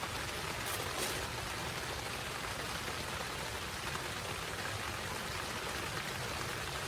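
Heavy rain falling steadily, with a couple of sharper drop taps about a second in.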